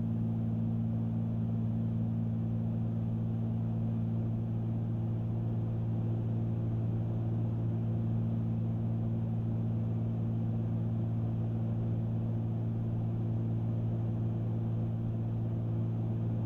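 Cessna 310Q twin piston engines and propellers droning steadily at cruise, heard inside the cabin, with an even low hum that holds the same pitch throughout.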